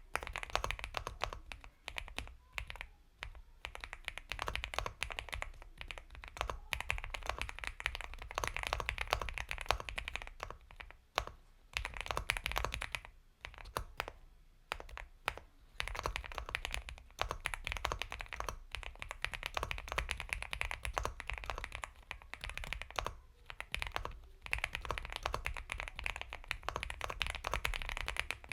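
Continuous typing on an Epomaker x Feker Galaxy 80 mechanical keyboard with Gateron Milky Yellow Pro linear switches: a rapid run of soft keystrokes, with short pauses about 11 and 14 seconds in.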